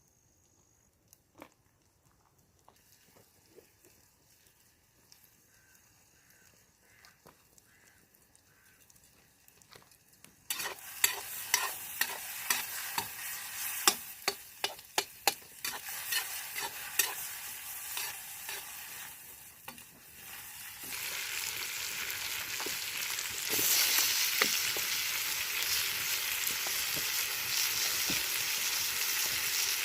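Food frying in a kazan, with hot fat sizzling and a utensil clicking and scraping against the pot as it is stirred. The first ten seconds hold only faint clicks; the sizzling starts abruptly about ten seconds in and grows louder after about twenty seconds.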